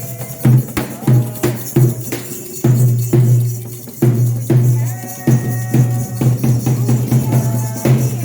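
Candomblé ritual music: drums struck in a steady, driving rhythm with voices singing over them.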